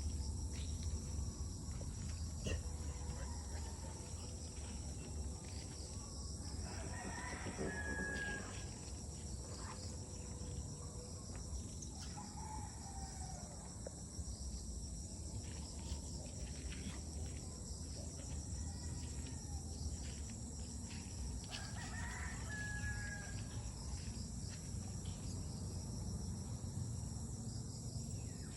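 A rooster crowing twice, once about seven seconds in and again about fifteen seconds later, each crow ending on a held high note, over a steady high hiss and a low hum.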